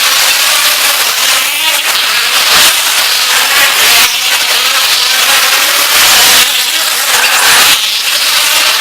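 Racing trucks' engines running loud in an indoor arena, a harsh noisy din that swells and eases every second or so.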